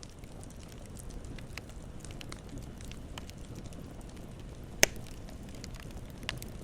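Campfire burning with a low steady rumble and scattered crackles, and one sharp loud pop a little under five seconds in, with a smaller pop near the end.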